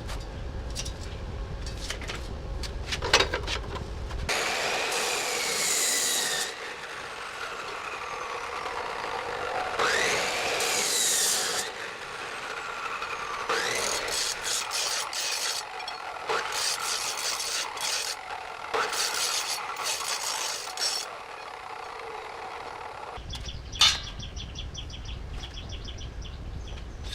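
Abrasive scraping on metal parts in uneven stretches, typical of rust being sanded or filed off during restoration. A sharp knock comes about three seconds in and another near the end.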